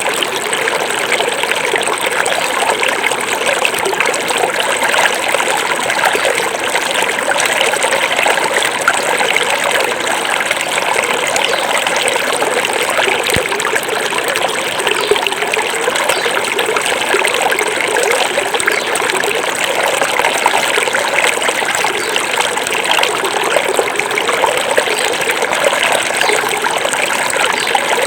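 Small forest stream running steadily over stones, a continuous trickling and burbling of water.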